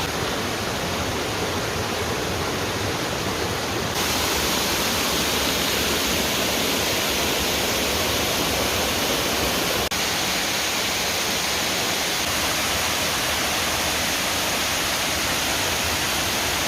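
Waterfall pouring: a steady, loud rush of water. It turns a little brighter and hissier about four seconds in, with a brief dip near ten seconds.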